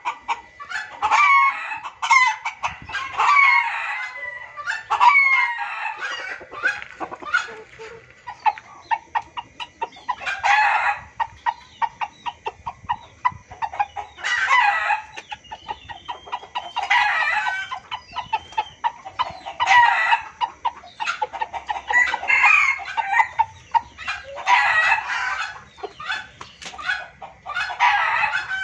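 Junglefowl calling over and over: loud cackling and clucking bouts every two to three seconds, with a stretch of rapid ticking clucks in the middle. It is a noisy lure call of the kind used to draw wild junglefowl in.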